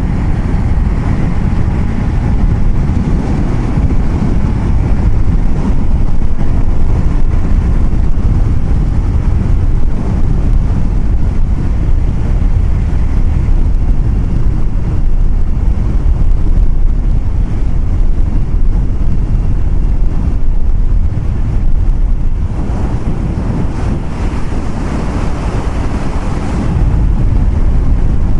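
Steady rumble of road and wind noise from a vehicle on the move, with wind buffeting the microphone. The noise grows brighter for a few seconds near the end.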